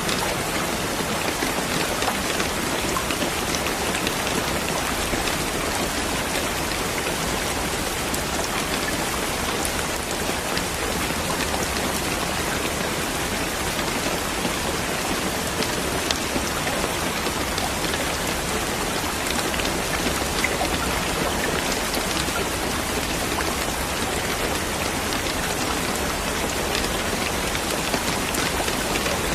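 Steady rain falling and pattering on a surface, with scattered distinct drops.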